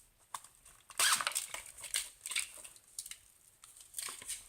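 Small plastic packets of spare diamond-painting drills crinkling and rustling as they are handled and stuffed into a mesh bag, loudest about a second in.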